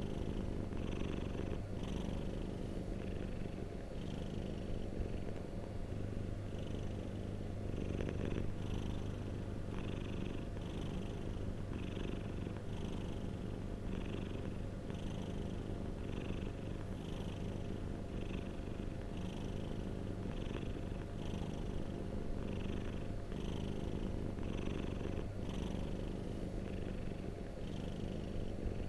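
Domestic cat purring close up: a continuous low rumble that swells and eases in a steady rhythm of about once a second with each breath.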